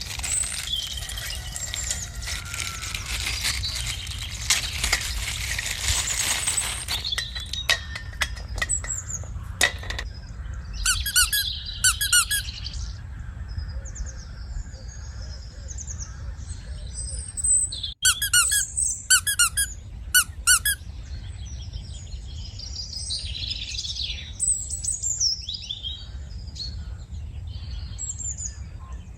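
Crinkling plastic and splashing water for the first seven seconds or so as a bag of coloured water is handled, then a few clicks and, now and then, short bursts of bird chirping.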